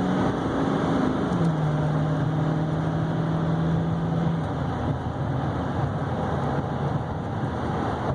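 Cab noise of a 2012 Chevy Silverado 3500HD with a 6.6-litre Duramax V8 turbodiesel under way: steady tyre and road rumble with the engine's drone. The engine's pitch steps down about a second and a half in, then the drone fades into the road noise.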